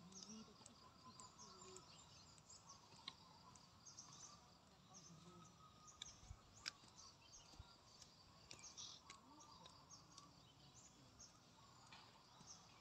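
Near silence: faint outdoor ambience with small birds chirping now and then and a few soft taps.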